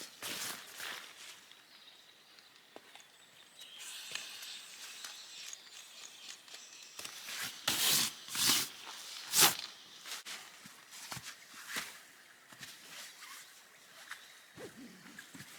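Irregular rustling and crunching, like a person moving about and handling things on a woodland floor, with three louder crunches a little past the middle.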